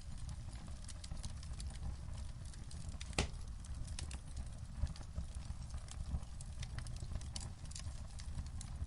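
Wood fire crackling in a fireplace: irregular sharp pops and snaps over a low, steady rumble of flames, with one loud pop about three seconds in.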